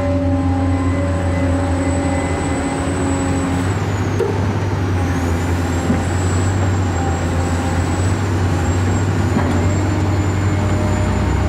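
Steady truck-like engine running, with a thin high whine that dips in pitch about four seconds in and comes back up.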